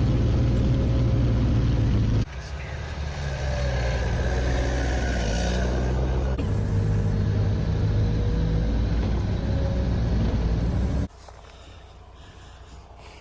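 Snowcat engine running steadily in several cut-together shots, a loud low drone, giving way to much quieter outdoor sound about eleven seconds in.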